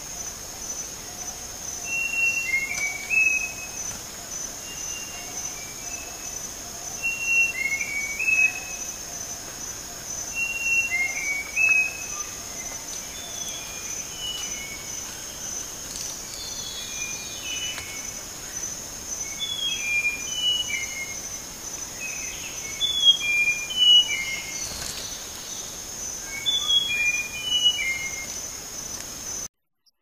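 Bird calls in tropical forest: short phrases of two or three descending whistled notes, repeated every few seconds, over a steady high-pitched insect drone. The sound cuts off abruptly near the end.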